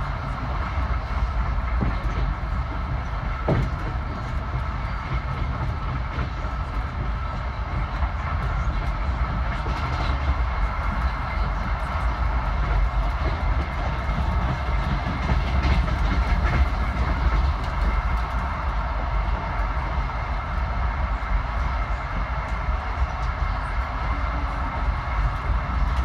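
Local passenger train running at speed, heard from inside the carriage: a steady rumble of wheels on the track with a few faint clicks.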